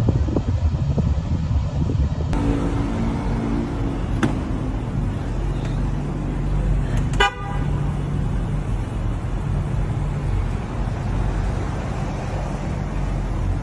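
Vehicle horn honking over a running engine and road noise, with a short sharp noise about seven seconds in.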